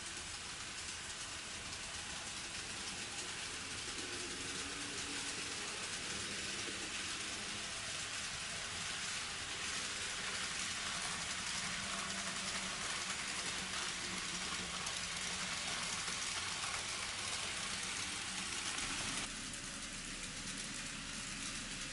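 N scale model train running on the layout's track: a steady rolling hiss and clatter of small wheels on rail, with a faint motor hum. It grows a little louder as the train comes nearer, then drops suddenly near the end.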